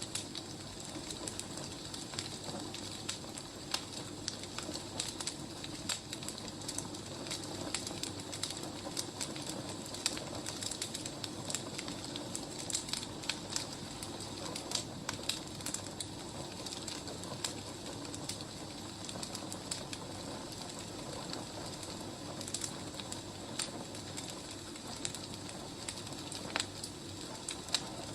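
Burning firewood crackling: a steady hiss with frequent, irregular snaps and pops.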